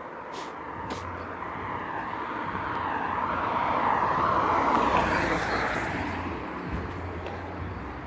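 A vehicle passing by, its rushing noise swelling to a peak about halfway through and then fading away. Two faint sharp clicks come near the start.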